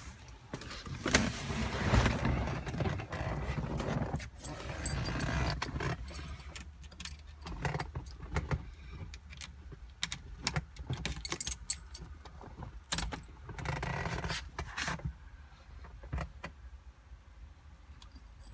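Keys jangling, with scattered clicks and rustling handling noise; no engine running.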